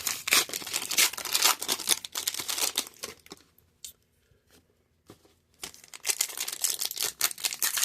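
Trading card pack wrappers being torn open and crinkled by hand. The crackling stops about three seconds in, falls almost silent for two seconds, then starts again.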